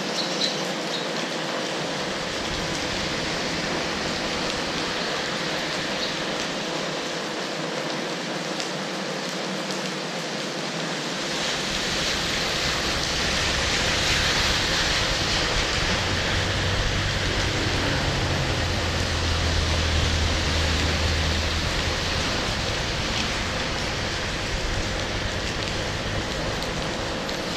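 Steady rain, an even hiss of rain falling on surfaces. A low rumble joins about twelve seconds in and is strongest in the middle, then eases.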